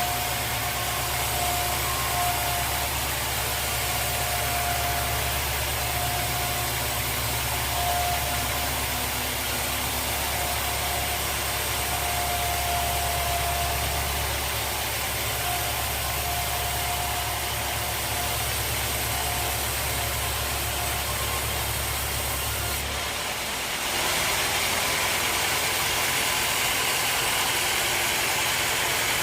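Sawmill machinery running: a steady engine-like hum with a high whine that comes and goes. The sound changes abruptly about four-fifths of the way through, the low hum dropping away.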